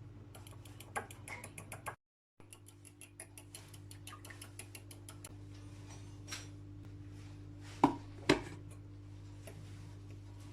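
Kitchen handling sounds of dishes and utensils: a quick run of light clicks and scattered ticks, then two sharp knocks about half a second apart near the end, over a steady low hum.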